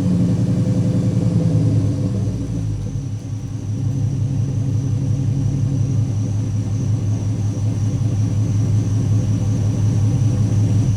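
1999 Jeep Grand Cherokee's 4.7-litre V8 through a Flowmaster Super 44 muffler and 3-inch Magnaflow tailpipe. The revs fall back over the first couple of seconds, then the engine settles into a steady low idle rumble.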